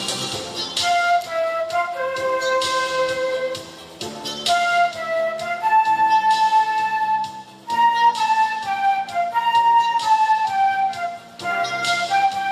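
Flute playing a slow melody of held notes over instrumental accompaniment, in phrases with short breaks between them.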